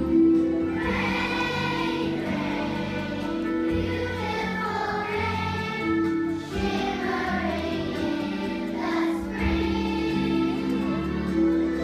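Choir singing with instrumental accompaniment, held chords changing every second or two.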